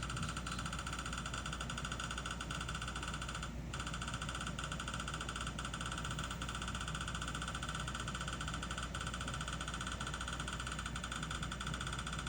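A small motor running with a steady high-pitched whine over a low hum, cutting out briefly about three and a half seconds in.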